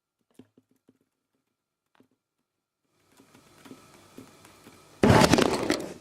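A few faint clicks, then rustling and crackling that builds about three seconds in and swells into a loud burst of crackling for about a second near the end.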